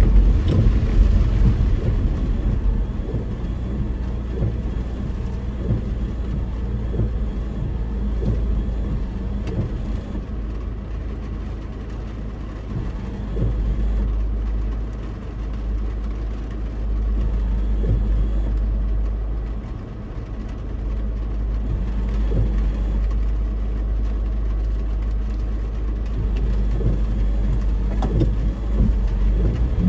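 Car cabin noise while driving: a steady low rumble of engine and tyres on the road, swelling and easing slightly with speed.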